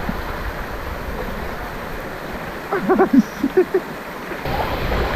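Steady rush of river water, with a few short high voice-like calls in quick succession about three seconds in.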